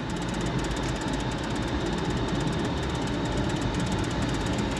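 Steady background din of a casino floor, with faint steady tones from the surrounding machines.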